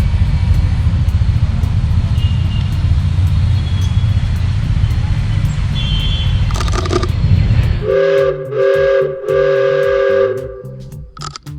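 A steady low rumble, then three blasts of a two-tone horn, the last one longest.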